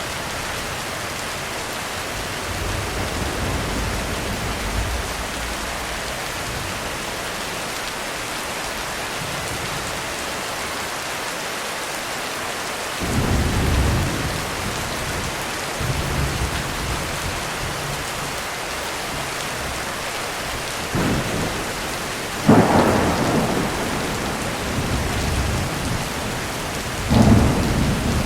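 Heavy rain falling steadily on a roof, with thunder. There are low rumbles through the first half, then sudden claps about halfway, around three-quarters of the way through (the loudest), and again near the end.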